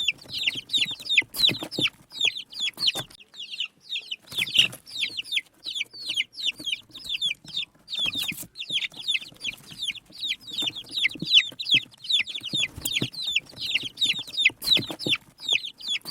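A flock of small birds chirping continuously, many short falling notes several times a second, with a few soft knocks among them.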